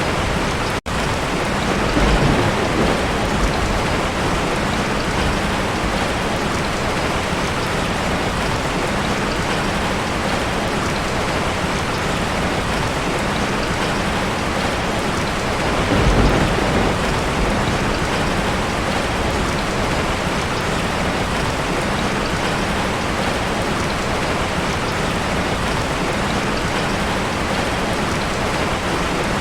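Heavy rain drumming steadily on a tin roof, with low thunder rumbles swelling about two seconds in and again about halfway through. The sound cuts out for an instant just under a second in.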